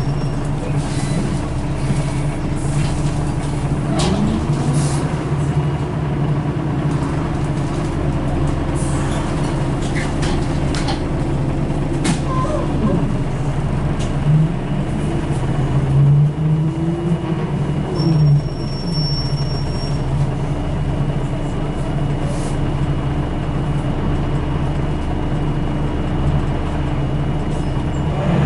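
Scania L94UB bus's diesel engine running steadily, heard on board, with a few short gliding sounds and a brief thin high tone partway through.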